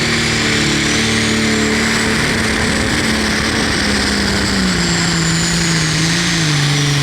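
Pro stock pulling tractor's turbocharged diesel engine running hard under load, with a high turbo whistle that rises and then falls away near the end. The engine pitch holds steady, then drops in steps from about halfway in as the revs sag, on a run that ends in trouble.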